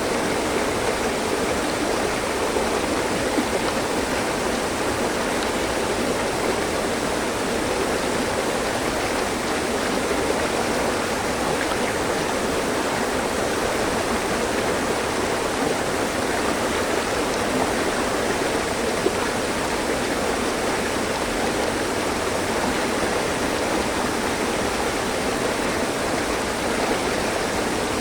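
Mountain stream: water rushing steadily over rocks, an even rushing sound with no change in level.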